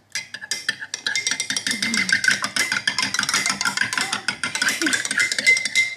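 A metal spoon stirring a drink in a ceramic mug, clinking rapidly and continuously against the sides with a ringing note.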